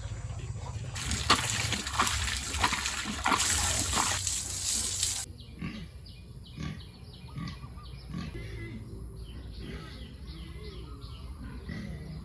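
Domestic pigs grunting in short, repeated low grunts. For the first few seconds a loud, steady hiss covers them, then cuts off abruptly about five seconds in.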